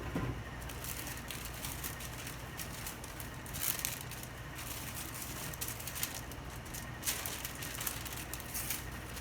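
Parchment paper wrapping rustling and crinkling in irregular bursts as it is handled, over a steady low background hum.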